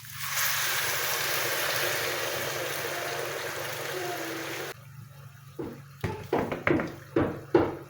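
Kitchen tap water running in a steady rush for about five seconds, then stopping abruptly. A run of sharp knocks and clatters follows, like dishes and utensils being handled.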